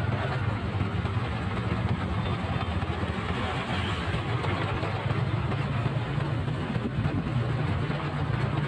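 Motorcycle engine running steadily under way, a low hum over a constant rushing noise.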